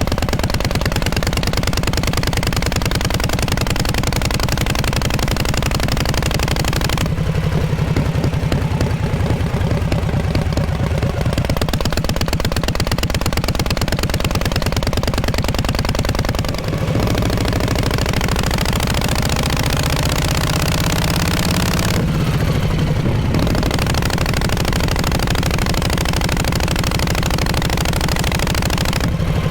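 Exhaust of a 1948 Harley-Davidson Panhead V-twin, running loudly and steadily with a fast, even beat. It dips briefly about seventeen seconds in, and its pitch shifts again a few seconds later.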